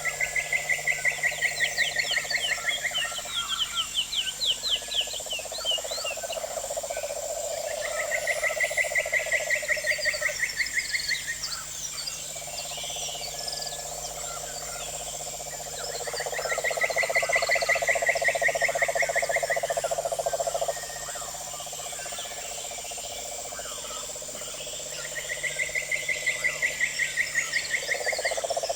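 Frogs calling in pulsed trills over a steady high chorus of insects. A higher trill lasting about three seconds comes back about every eight seconds, and a lower trill runs in long stretches between them.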